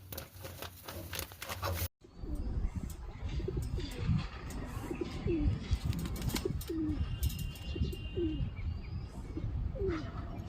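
Pigeons cooing: short gliding coos repeating about once a second, with scratching and clicking of birds moving in a loft. A brief cut about two seconds in separates the scratching from the cooing.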